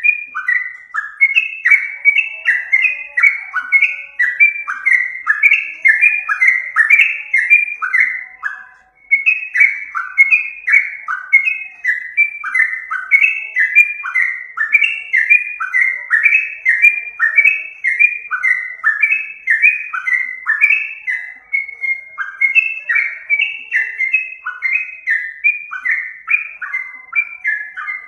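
Yellow-vented bulbul (trucukan) calls of the kind played as a trapping lure: a continuous run of short, bubbling, falling notes, several a second, with a brief break about nine seconds in.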